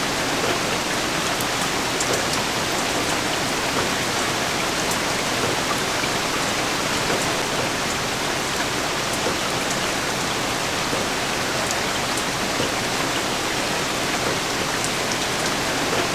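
Steady rain falling, an even dense hiss of drops with scattered small drop ticks.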